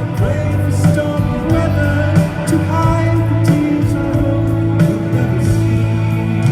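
Live band music in an arena: sustained bass and keyboard chords with drum hits, and a voice singing over them.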